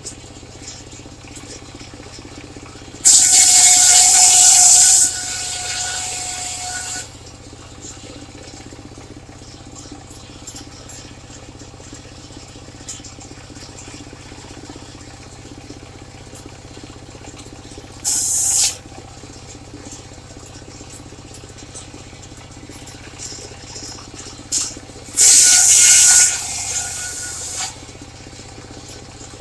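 Traveling circular sawmill running steadily, its blade biting into wood in loud, whining cuts. There is a cut of about four seconds a few seconds in, a brief one past the middle, and another of about two seconds near the end.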